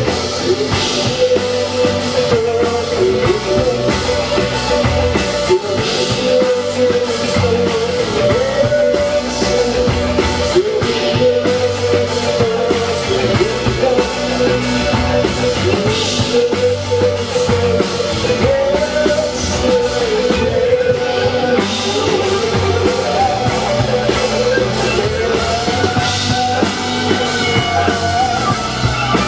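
Rock band playing: drum kit and guitar, with a wavering melody line carried over them.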